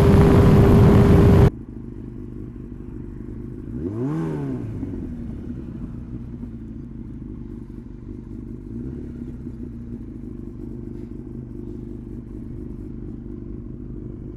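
Motorcycle engine idling steadily, with one brief rev that rises and falls in pitch about four seconds in. It opens with a loud rush of noise lasting about a second and a half.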